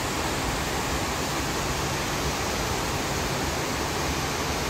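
Heavy tropical squall rain pouring down in a steady, even hiss.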